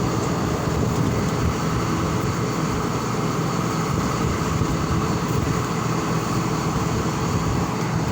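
A large engine running steadily: an even, unbroken low drone.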